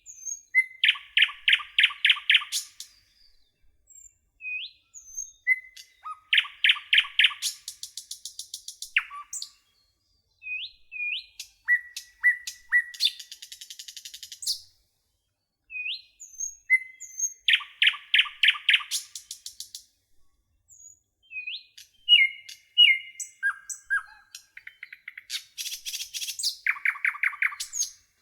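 A nightingale singing in about five separate phrases with short pauses between them. Each phrase opens with a few rising whistled notes, runs into a rapid series of loud repeated notes and ends in a very fast, high rattling trill.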